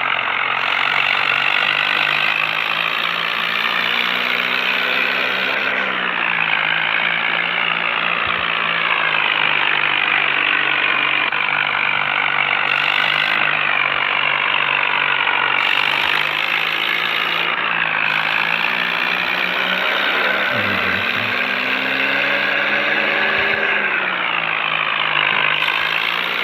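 Swaraj 855 tractor's diesel engine running steadily, its pitch dipping and rising again a few times as the throttle is eased and opened.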